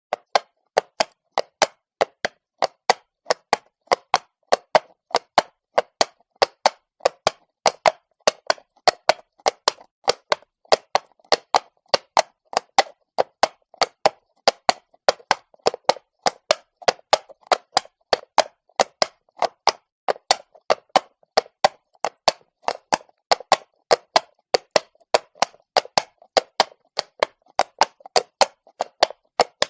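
Horse's hooves clopping on cobblestones at a walk: a steady rhythm of sharp clops, about four a second.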